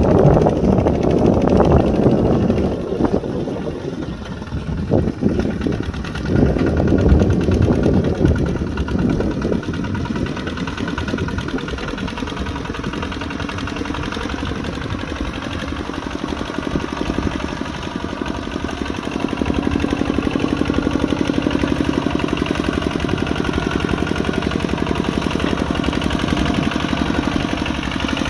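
Kubota RT140 Plus single-cylinder diesel engine of a walk-behind tractor, running with a rapid, even firing chug. It sounds rough and noisy for the first several seconds, then settles into a steady run that grows louder about two-thirds of the way in.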